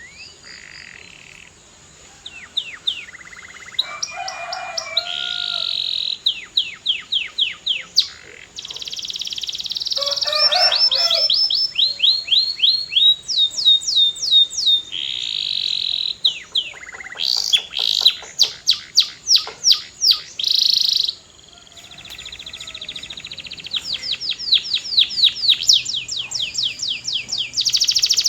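Canary singing a long, continuous song of fast trills: runs of rapidly repeated high, down-slurred notes alternating with sustained buzzy rolls, starting softly and growing louder.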